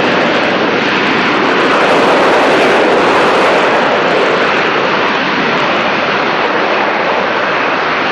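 AV-8B Harrier II jet running loud and steady, a continuous rushing jet noise from its Rolls-Royce Pegasus turbofan that swells a little about two to three seconds in.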